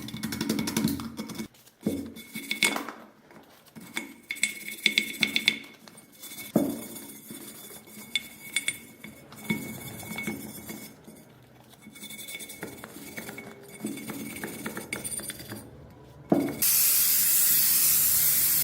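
Small metal parts clinking and tapping as they are handled, in scattered bursts. Near the end a loud, steady spray hiss starts.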